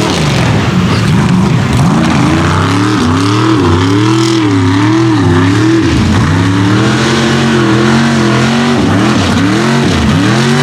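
Mega truck engine revving hard under heavy throttle, its pitch rising and falling again and again as the throttle is worked through the course.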